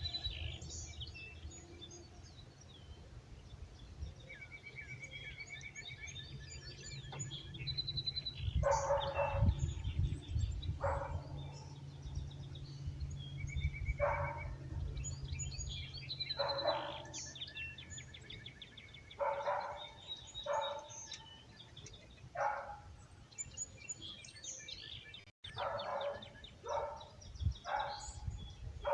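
Songbirds chirping and trilling in a dawn chorus, with a dog barking repeatedly from about a third of the way in. A low rumble runs under the first half or so.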